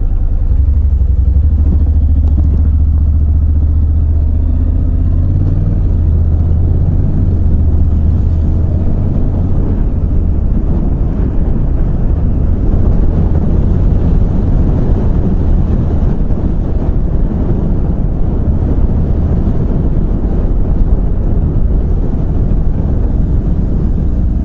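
Motorcycle riding, heard through a microphone tucked inside the rider's helmet padding. A low engine note dominates at first and shifts about five seconds in, then wind rush over the helmet builds as the bike picks up to around 30 mph.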